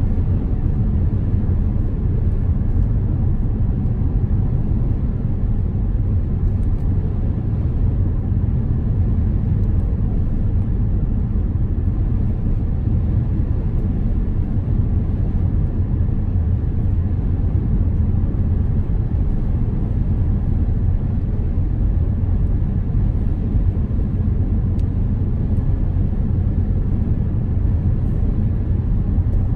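Car driving in the rain: a steady low rumble of tyres and engine on wet road, with a few faint scattered ticks.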